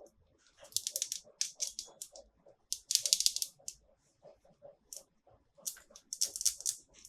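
Plastic packaging and toys being handled: several short bursts of rapid, crisp clicking and crackling with brief pauses between them.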